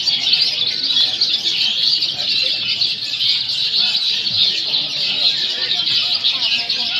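Many long-tailed shrikes singing at once: a dense, unbroken chorus of rapid, high chattering and whistled phrases.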